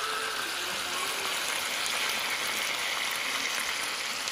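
Chicken wings and drumsticks in buffalo sauce sizzling steadily in a frying pan.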